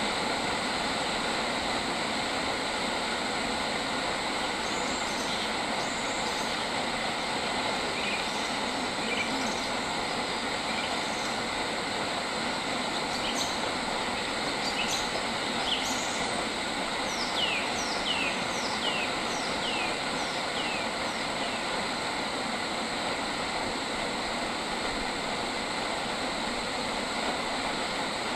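Wild birds chirping over a steady, dense background hiss. Scattered single chirps come in the first half, then a run of about five quick chirps, each sliding downward, near the middle.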